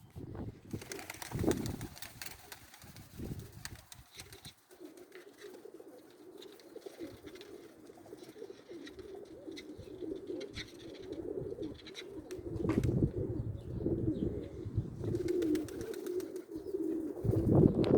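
Domestic pigeons cooing on and on, with gusts of wind rumbling on the microphone and a few knocks.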